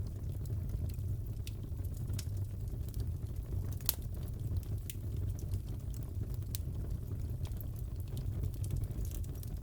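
Crackling fireplace: a steady low rumble of the fire with irregular sharp pops and crackles, the loudest pop about four seconds in.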